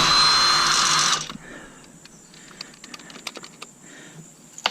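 Power driver with a socket running for about a second on a bolt in a coffee maker's sheet-metal housing, followed by scattered light clicks and taps of tools and metal parts.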